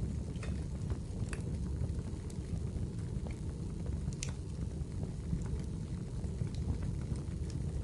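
Wood fire in a fireplace crackling, with irregular sharp pops over a steady low rumble of burning; one louder pop about four seconds in.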